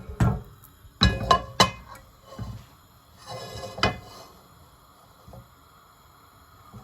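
Metal cookware clanking: a wok and kitchen utensils knocked and set down. There are a few sharp clanks, the loudest cluster about a second in, and a ringing clank near the middle.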